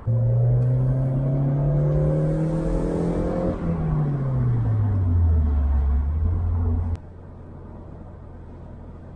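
1998 Fiat barchetta's 1.8-litre four-cylinder engine under way, its note rising steadily as the car accelerates for about three and a half seconds, then falling away and holding a lower steady note. About seven seconds in it drops abruptly to a quieter, steady drone of the moving car.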